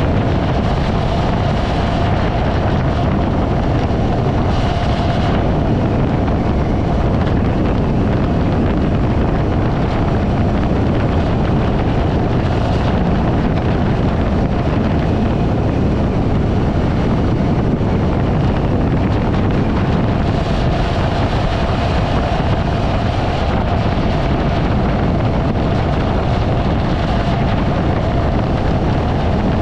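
Wind rushing over the microphone of a riding motorcycle, with the motorcycle's engine running steadily underneath and a faint steady whine.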